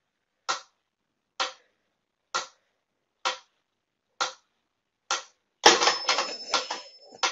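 Mechanical pyramid metronome ticking steadily, a little faster than one tick a second. About two-thirds of the way in, the ticking gives way to a louder, jumbled noise lasting about a second and a half.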